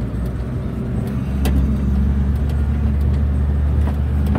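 Car engine running under way, heard from inside the cabin as a steady low drone that grows louder about a second in, with a few faint clicks.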